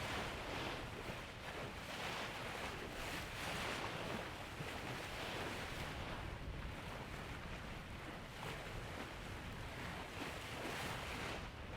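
Steady rush of wind and sea water aboard a racing sailboat under way, with wind buffeting the microphone.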